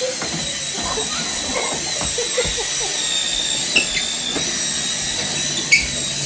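Small electric motor of a remote-control Monster Jam toy truck running, with a steady high whine that wavers slightly in pitch.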